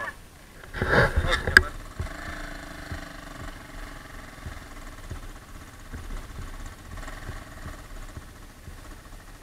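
Off-road motorcycle engine idling steadily, with a short loud burst of noise and a few knocks about a second in.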